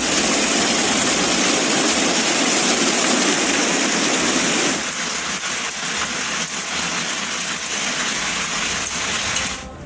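Hail and heavy rain pelting down, a loud, dense rush of countless small impacts. About five seconds in the sound changes abruptly to a thinner, hissier pelting, and it falls away sharply just before the end.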